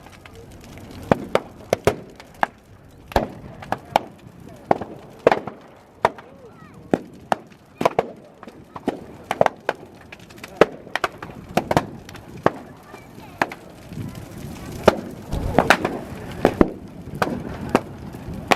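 Tondo-yaki bonfire burning, with a dense run of sharp, irregular crackles and pops, two or three a second, some much louder than others.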